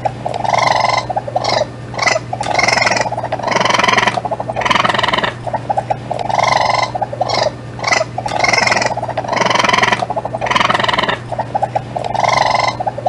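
Raccoon calls: a fast rattling trill followed by a louder churring call, repeated about every two seconds, over a steady low hum.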